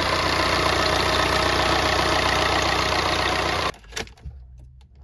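Tata Indica's CR4 common-rail diesel engine idling steadily, heard close at the engine bay, running again after its timing belt and broken slash adjusters were replaced. Near the end the sound drops away suddenly to a faint quiet with a couple of clicks.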